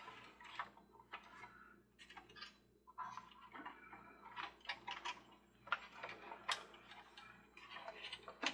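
Irregular small clicks and taps of parts being handled and fitted together as the toy Ferris wheel's base and arms are reassembled.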